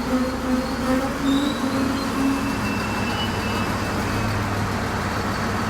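CFR Class 60 (060-DA) diesel-electric locomotive, its Sulzer V12 diesel engine running steadily with a low hum. Faint high whines come and go over the top.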